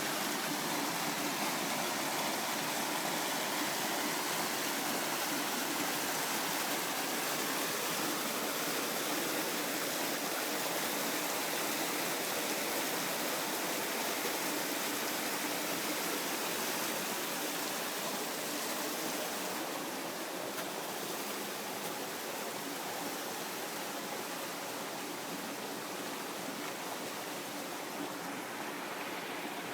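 Waterfall on a small stream: water falling and rushing in a steady, even wash, easing a little about two-thirds of the way through.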